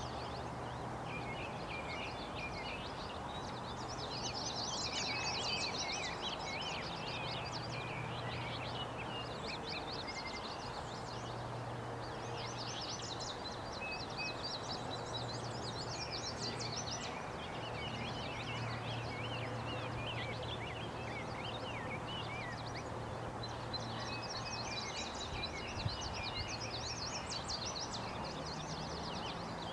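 Songbirds singing in bursts of rapid high chirps every few seconds, over a steady outdoor background hiss with a low hum underneath.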